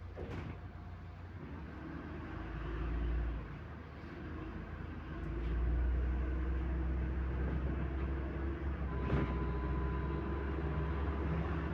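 Cabin of a MAZ-105 city bus under way: the engine and drivetrain make a low rumble that builds, drops briefly about three and a half seconds in, then rises again and holds steady. Two short knocks, one near the start and one near the end.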